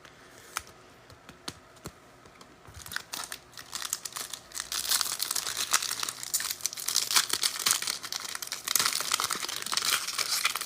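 A few light clicks of cards being handled, then from about three seconds in the steady crinkling and tearing of a foil trading-card pack wrapper being ripped open.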